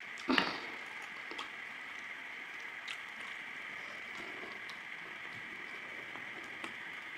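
Close-up chewing and crunching of small whole crabs. A sharp crunch comes about half a second in, then scattered crackles over a steady hiss.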